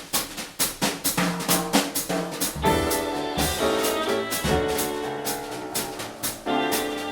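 Jazz trio of violin, piano and drum kit playing: the drums keep a steady beat of about three cymbal strokes a second, and the piano and violin come in with sustained notes about two and a half seconds in.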